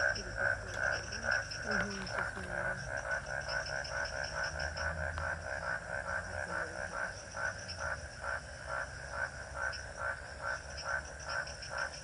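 Frogs calling, a steady run of short, evenly repeated croaks at about three a second.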